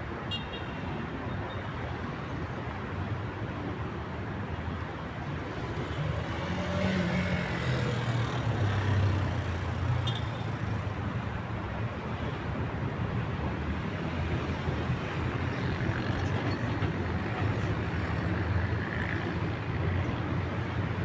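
Urban street ambience dominated by steady road traffic, with a vehicle's low engine rumble swelling as it passes about a third of the way in.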